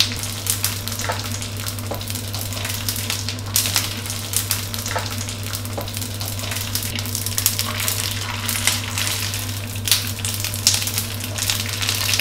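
Dried tofu skin (bean curd sheets) frying in shallow hot oil in a nonstick wok: a continuous sizzle with frequent sharp crackles and pops as the sheets puff up and crisp. A wooden spatula stirs and turns them.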